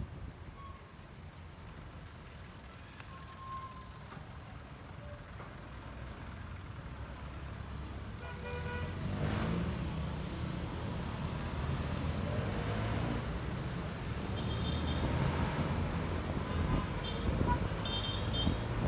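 Motor scooter riding through traffic: a steady low engine-and-road rumble with wind on the microphone, growing louder about halfway through. Short vehicle horn toots sound about halfway through and a few more times near the end.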